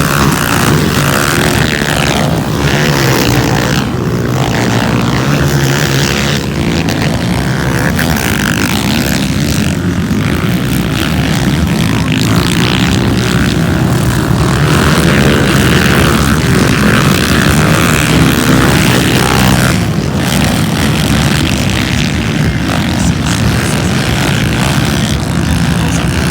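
Motocross motorcycle engines running hard at race speed, a loud, continuous engine drone.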